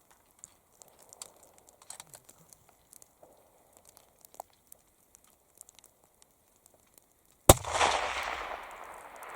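A single rifle shot about seven and a half seconds in, its report rolling away in a long echo. Before it there are only faint scattered small clicks.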